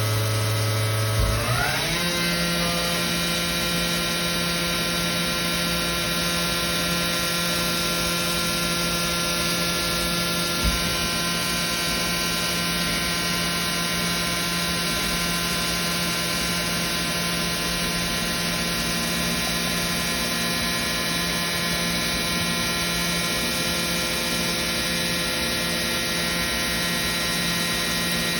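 2007 Victor V-Turn 36 CNC lathe running with a steady whine. About a second in, the pitch climbs quickly and then holds at the new, higher pitch, as the spindle drive speeds up. There is a short knock near 11 s.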